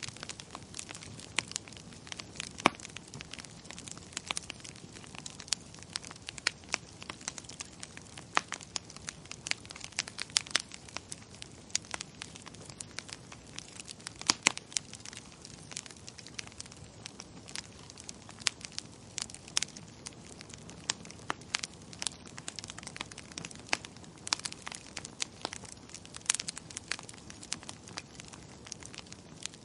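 Wood fire crackling in a fireplace: irregular sharp pops and snaps, some much louder than others, over a low steady hiss of burning.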